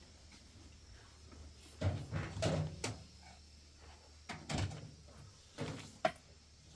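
A few short knocks and bumps in three brief clusters, about two, four and a half, and six seconds in, like a door or cupboard being handled.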